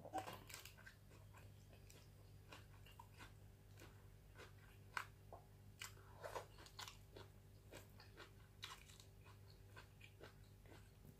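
Faint, close-up eating sounds: wet chewing and short mouth clicks at an irregular pace as a person eats braised catfish adobo with her fingers, over a steady low hum.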